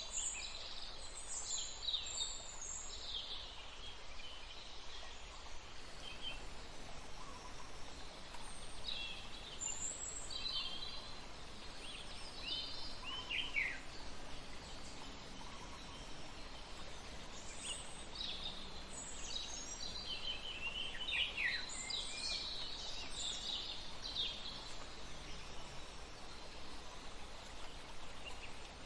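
Several wild birds chirping and calling in short high notes, a few of them sliding down in pitch, over a steady background hiss.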